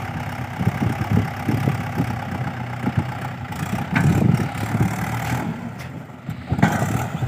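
Mahindra 575 tractor's diesel engine idling, with an uneven low chugging.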